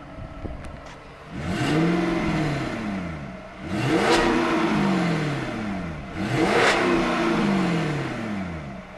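2005 Cadillac XLR's 4.6-litre Northstar V8 revved three times from idle, each rev rising and falling back over about two seconds.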